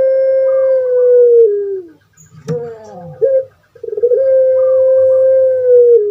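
Puter pelung (ringneck dove, Streptopelia risoria) cooing: a long drawn-out note held at one pitch that drops at the end, a few short notes, then a second long note that also drops away near the end.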